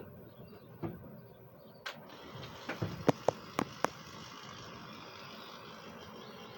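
A quick run of about half a dozen sharp clicks and taps near the middle, after a couple of single clicks, over a low steady hiss.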